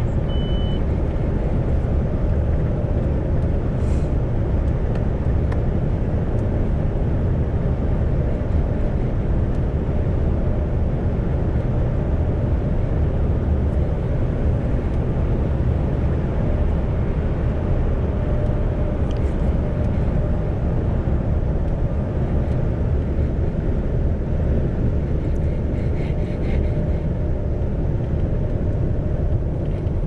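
Isuzu Giga heavy truck cruising on the expressway, heard from inside the cab: a steady low drone of engine and road noise. A short high beep sounds right at the start.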